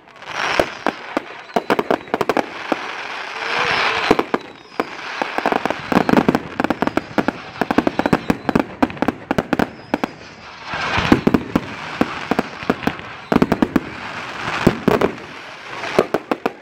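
Fireworks going off in quick succession: dense rapid cracks and bangs with swells of crackling, several peaks of heavy crackle and bangs through the display.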